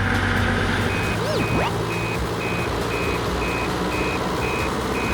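Dump truck's reversing alarm beeping about twice a second, starting about a second in, over the steady low hum of its running engine. A brief swooping tone comes just as the beeping starts.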